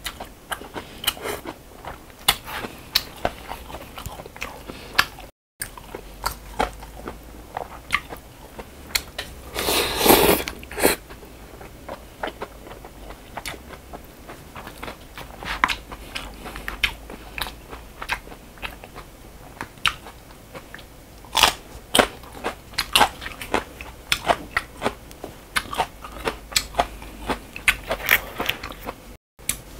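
A person eating noodles close to the microphone: wet chewing with frequent sharp smacks and clicks, and a louder slurp about ten seconds in.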